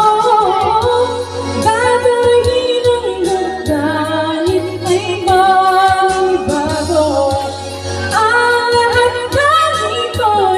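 Woman singing a Tagalog love ballad over an instrumental backing track, holding long, sustained notes.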